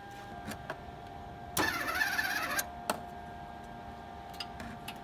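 A 110-volt welder striking an arc: one crackling burst of about a second, with a few sharp clicks and a faint steady hum, and a second burst starting near the end. The welds are short, with the ground clamp in a poor spot that needs moving.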